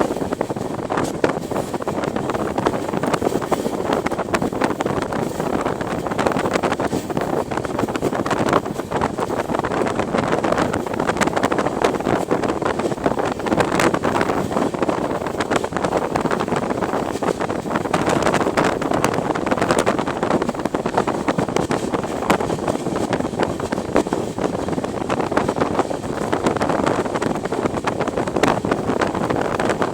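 Steady running noise of a train in motion, with wind buffeting the microphone and irregular clicks and knocks throughout.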